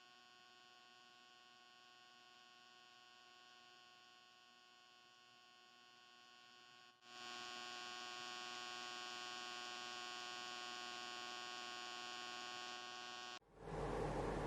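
Dead silence for about seven seconds, then a faint, steady electrical hum with many even overtones. The hum cuts off shortly before a louder rushing noise begins near the end.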